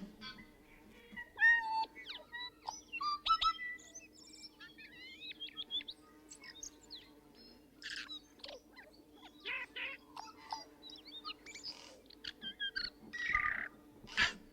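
Several birds chirping and whistling, a run of short, varied calls with quick rising and falling notes, over a faint steady hum.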